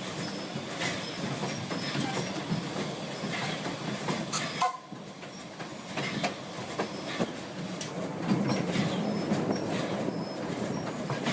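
1927 vintage steam train running on its track: a steady rumble with wheels clicking over the rails and short high squeals. A sharp clank comes about four and a half seconds in.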